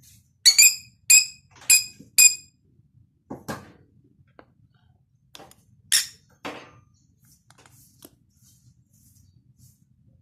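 Cockatiel giving short, sharp chirps: four in quick succession in the first couple of seconds, then a single loud one about six seconds in, with a few fainter clicks in between.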